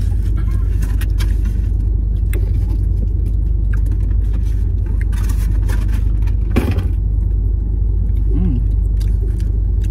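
Steady low rumble under scattered clicks and smacks of eating and handling takeout food containers, with one louder knock about six and a half seconds in.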